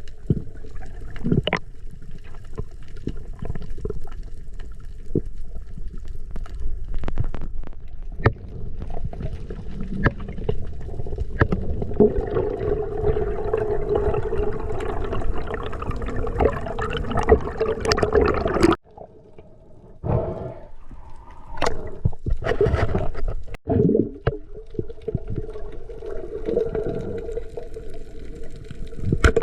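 Water sloshing and gurgling around a camera in the sea, with scattered clicks and knocks.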